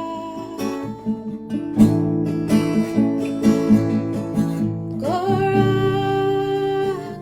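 Kirtan devotional music: acoustic guitar strumming a steady rhythm under melodic tones, with one long held note from about five seconds in.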